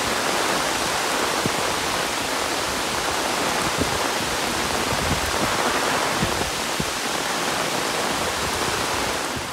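Heavy monsoon rain falling steadily, a dense even hiss with scattered drips and drops; it fades out right at the end.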